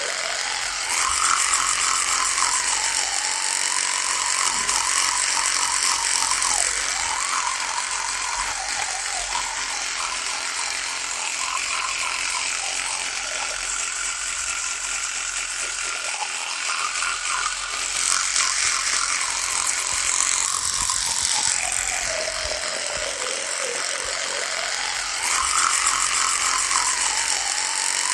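Electric toothbrush buzzing without a break, its pitch wavering up and down. It grows louder for a few seconds about a second in, again about two-thirds of the way through, and near the end.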